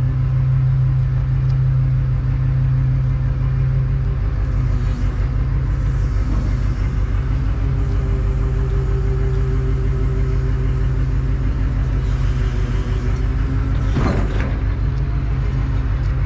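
Diesel truck engine idling steadily with a deep, even drone. A brief rushing sound rises and falls about fourteen seconds in.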